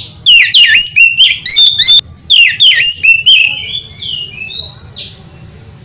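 Oriental magpie-robin singing: loud, rapid phrases of whistled notes sweeping up and down, a short break about two seconds in, then softer notes trailing off near the end.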